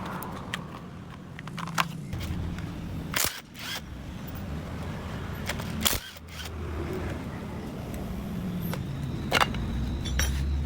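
Sharp clicks and knocks of hand tools on scooter engine parts, scattered several seconds apart over a low steady hum.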